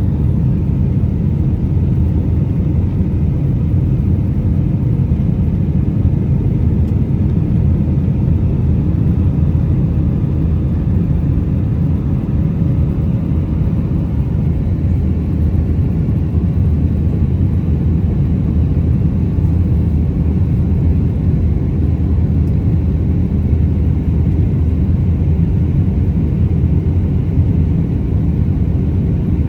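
Steady low rumble inside the cabin of an Airbus A319-131 airliner, its engines and airflow running evenly with no rise or fall.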